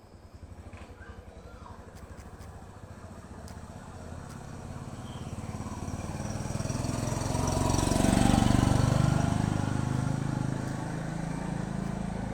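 A motor vehicle's engine passing, growing louder to its loudest about eight seconds in, then easing off.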